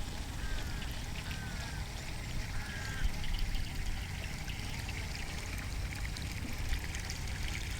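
Wind buffeting the microphone in a steady low rumble, with a watery trickling haze. Four short, falling chirps of a bird come in the first three seconds.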